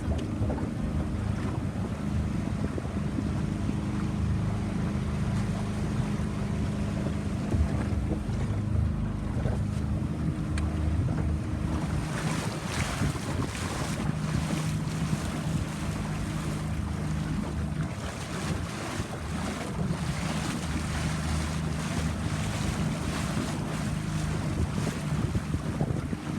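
A boat's engine running steadily under wind buffeting the microphone and the rush of water, the wind and spray noise growing stronger and gustier about halfway through.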